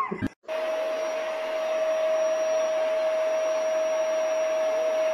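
A small motor appliance running steadily: a constant whine over a rushing-air noise. It starts suddenly just after the beginning and does not change.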